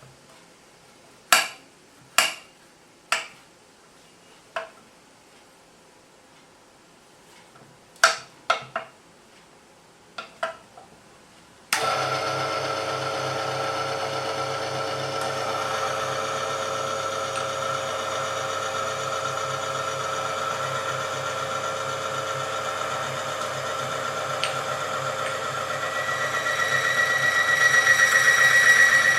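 Several separate knocks and clicks, then a small motor-driven machine switches on abruptly and runs steadily. Near the end it grows louder and a high whine comes in.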